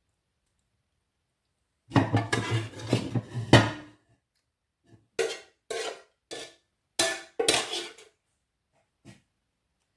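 Metal spoon scraping and knocking against a cooking pan and food containers while food is portioned out. A dense run of scraping and clatter about two seconds in is followed by about six separate knocks.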